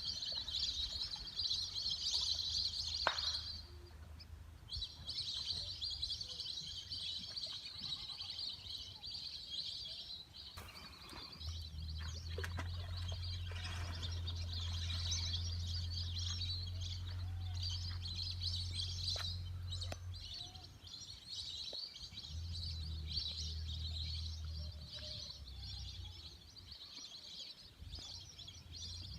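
Many birds calling together in a continuous chattering chorus, with a brief lull about four seconds in. A steady low hum runs underneath.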